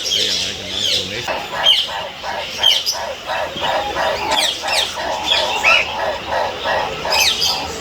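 Mixed captive birds chirping and calling together, many short high chirps and falling notes overlapping, with a quick run of repeated lower notes from about a second in.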